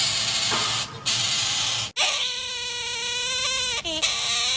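Baby bird hissing in rasps with short breaks, then, after a sudden cut about two seconds in, a long wavering cry held for about three seconds.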